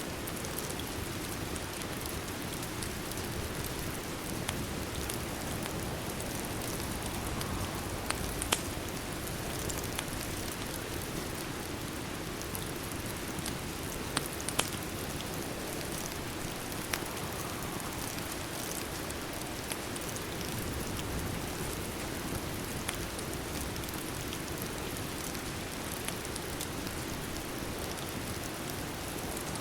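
Steady rain ambience, with a handful of sharp pops from a crackling fireplace scattered through it.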